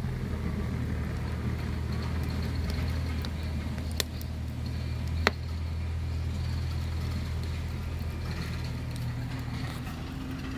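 Wood fire crackling, with two sharp pops about four and five seconds in, over a steady low rumble.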